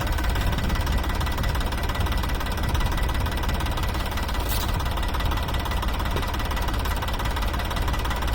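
Tractor diesel engine running steadily with a rapid, even knocking beat.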